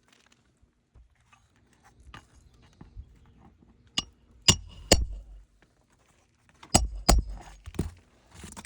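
Sharp metallic clinks and knocks from roofing work on an asphalt shingle roof. There is one about four seconds in, then a pair half a second later, and another pair near the end, each with a brief ringing tail.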